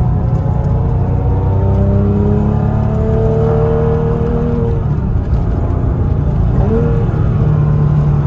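Porsche Cayman S 987.1's 3.4-litre flat-six heard from inside the cabin, pulling through the revs with a slowly rising note for about five seconds, then dropping back as the throttle eases, over a steady drone of engine and road noise.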